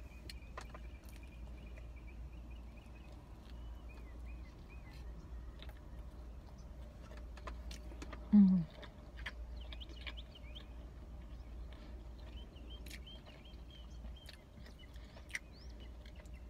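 Chewing and mouth clicks from eating pizza, with birds chirping faintly in short bursts in the background. About halfway through comes one brief low hum, the loudest sound.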